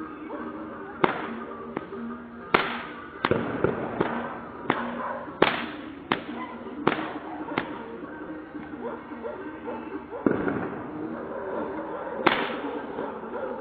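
A rapid series of sharp cracks, roughly one every three-quarters of a second, pausing for a few seconds and then resuming near the end, over background music.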